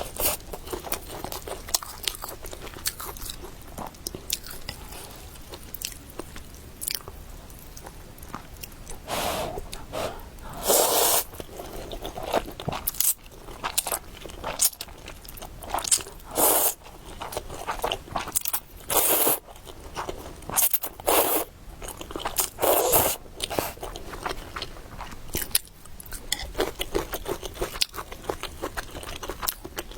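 Close-miked eating: chewing and biting into food, with many small wet clicks and louder noisy bursts every few seconds.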